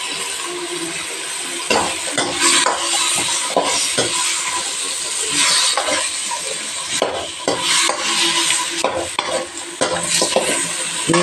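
Chicken pieces sizzling in hot oil in a pan while a utensil stirs them, scraping against the pan in irregular strokes; they are being sautéed with turmeric, small onions and salt.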